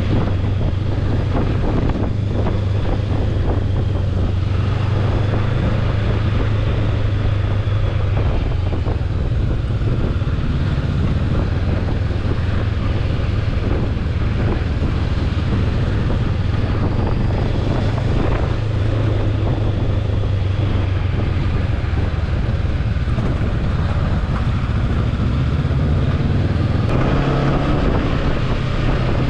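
Motorbike engine running steadily at speed, its low hum under wind rushing over the microphone.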